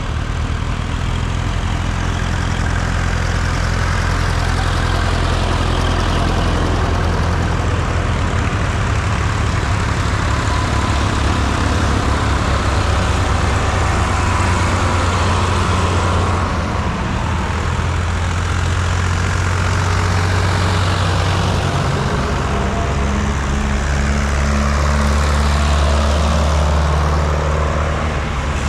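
Vintage tractor diesel engines running steadily on the road, with the pitch of the engines shifting slowly in the second half as tractors move along.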